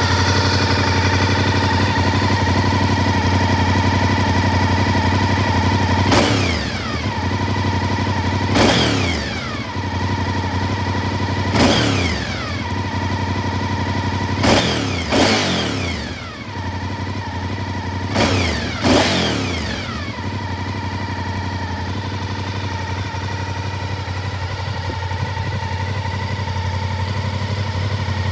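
Honda VTR1000SP-1's V-twin idling through an Akrapovič exhaust. In the middle stretch it is blipped seven times, the revs jumping sharply and falling straight back to idle each time.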